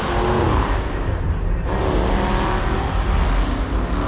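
Car meet din: a steady deep rumble of engines running, with background voices or music over it.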